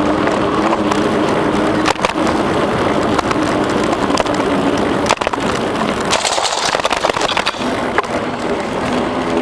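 Bicycle rolling along a trail: a steady rush of tyre noise with a faint hum and a few sharp knocks and rattles from the bike over bumps, the biggest about two seconds in and about five seconds in.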